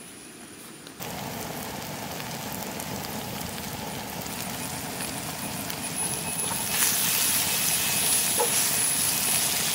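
Onion-tomato masala sizzling and crackling in hot oil in a frying pan, starting abruptly about a second in and growing louder near the end as it is stirred with a wooden spatula. A thin, steady high tone runs underneath.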